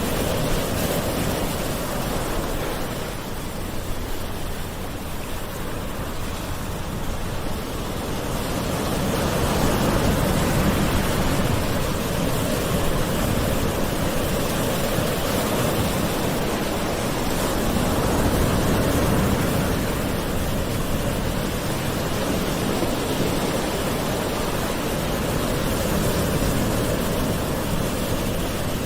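Gentle ocean waves washing onto shore, a continuous surf wash that swells and eases slowly, with a quieter lull followed by a fuller swell about ten seconds in.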